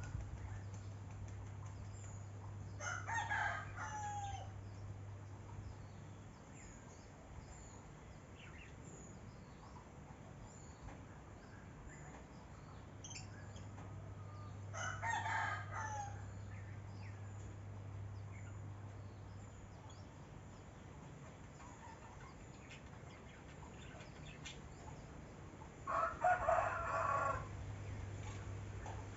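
Rooster crowing three times, roughly eleven seconds apart, each crow lasting about a second and a half, over a faint steady low hum.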